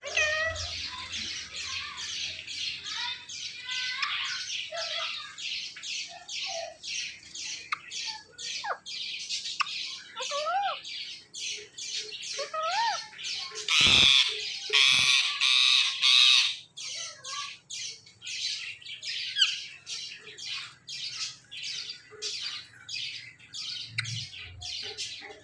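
A pair of ringneck parakeets squawking in a rapid run of harsh calls, about three a second, with a few short rising whistles mixed in. The squawking is loudest for a couple of seconds just past the middle.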